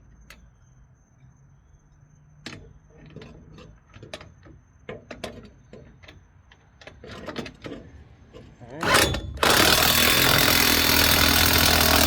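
Scattered clinks and knocks of metal tools, then a Snap-on impact wrench gives a short burst about nine seconds in and runs for about two and a half seconds, tightening a crane mounting bolt.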